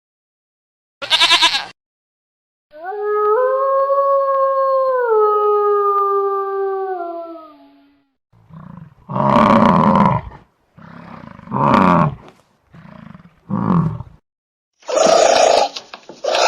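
A run of different animal calls. A short call comes about a second in, then a long, steady pitched call lasting about five seconds that drops in pitch at its end. Then come four short, rough, loud calls, and another call begins near the end.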